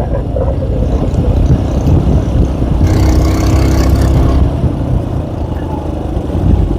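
K Moto ATX motorcycle engine running under load while climbing a hill, pulling harder for about a second and a half midway.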